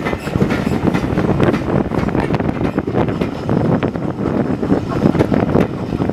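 Railway carriages running along the track: a steady rumble with a quick, uneven clatter of the wheels over the rails.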